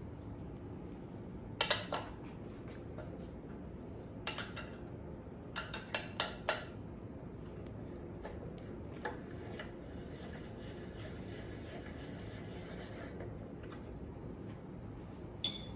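Hand tools clinking against metal scooter parts as the front wheel's axle fasteners are undone with an Allen key and a wrench: a few scattered sharp clinks, with a cluster of several about six seconds in.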